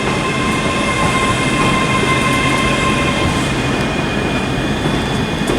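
ScotRail Class 385 electric multiple unit, two units coupled, running in along the platform: a steady rumble with a high whine, one tone of which stops about three and a half seconds in.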